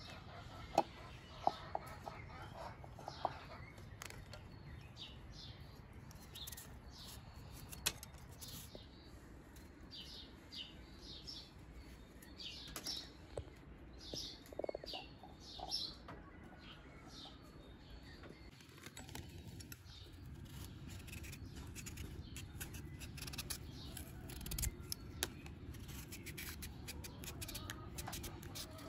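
Small birds chirping in short, high calls, with a few sharp clicks near the start over a steady low background noise.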